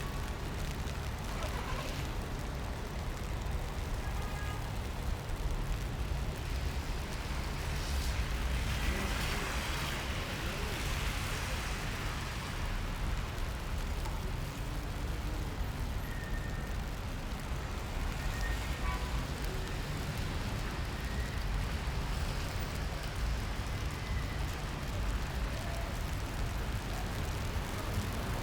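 Rainy city street ambience: a steady hiss and low rumble of traffic on wet roads, swelling as a vehicle passes about eight to twelve seconds in, with faint voices now and then.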